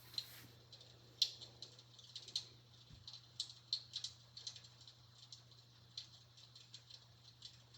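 Fire crackling sound effect from a smart electric fireplace: irregular, sharp, high-pitched pops and snaps, a few a second, like logs crackling, over a steady low hum.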